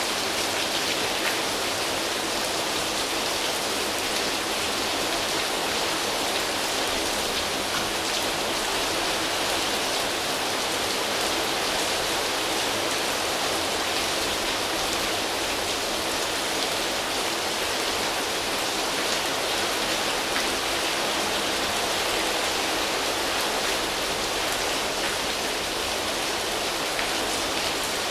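Rain falling steadily on leaves: an even, unbroken hiss of many drops.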